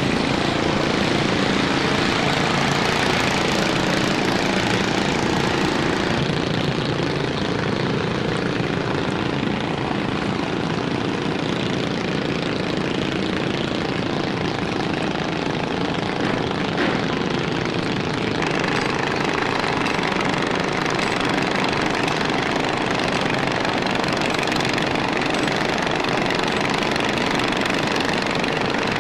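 A fishing boat's engine running steadily, mixed with loud rushing wind and sea noise.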